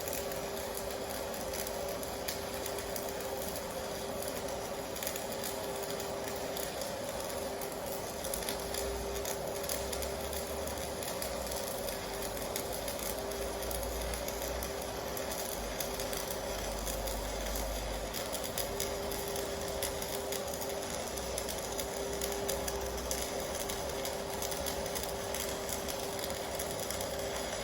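Electric welding arc from a Stahlwerk AC/DC TIG 200 inverter welder, burning steadily with a continuous crackle over a steady buzzing tone.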